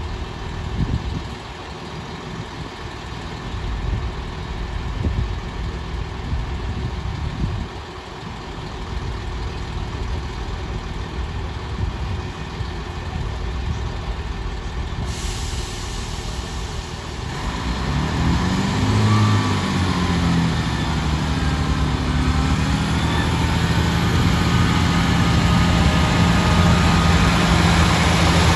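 Class 158 diesel multiple unit's underfloor diesel engines idling at the platform; about halfway through a sudden hiss starts, and soon after the engines rev up, their pitch bending up and down and the sound growing louder as the train pulls away.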